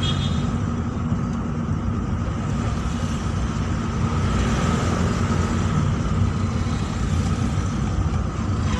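Steady rumble of a road vehicle driving, engine and road noise with no distinct events.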